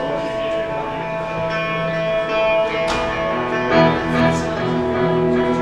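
Live music: a guitar playing the opening of a song over held, ringing notes, with a few sharper accents partway through.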